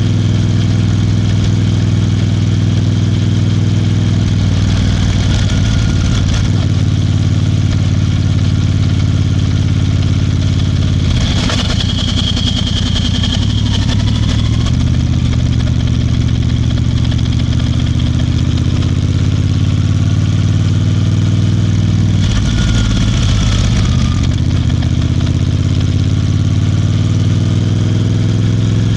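Royal Enfield Bear 650's parallel-twin engine running steadily while the bike is ridden, its note shifting a few times: around five seconds in, about eleven seconds in and again around twenty-two seconds in, with a brief rush of noise at each change.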